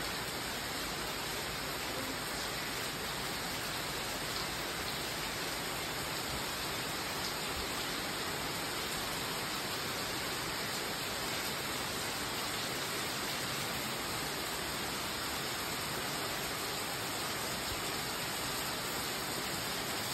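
Steady rain falling: an even hiss that holds level with no let-up.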